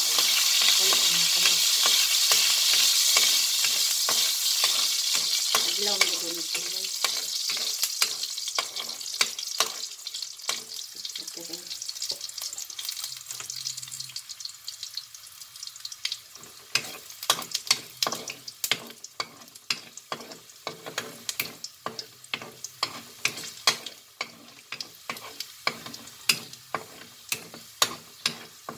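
Chopped garlic frying in oil in a wok: a loud sizzle that dies down over the first ten seconds or so into scattered pops and spits. A metal spatula scrapes and taps against the wok as the garlic is stirred.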